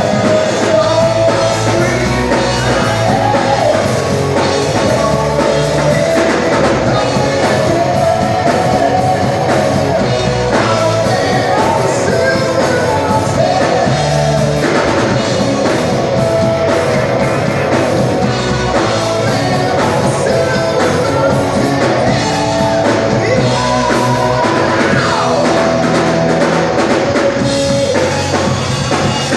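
Rock band playing live, with a singer over drum kit and electric guitar.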